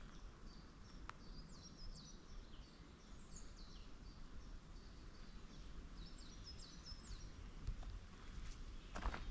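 A songbird sings two short phrases of quick, high, falling notes, about a second and a half in and again around six seconds, over a faint low rumble of forest background. Footsteps on the path start again near the end.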